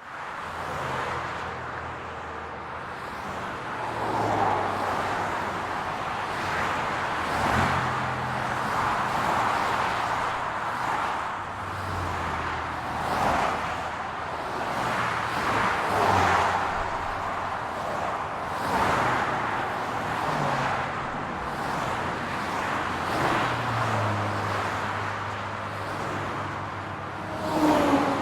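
City road traffic: cars passing one after another, their tyre and engine noise swelling and fading every few seconds over a low steady engine hum. A short louder pitched sound near the end.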